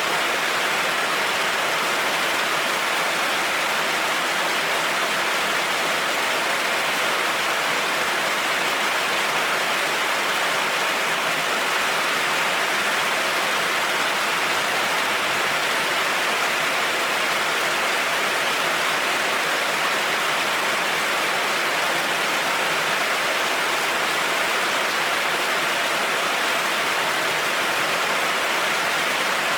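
Heavy rain falling in a steady, even hiss, without thunder or any single louder drop or crack.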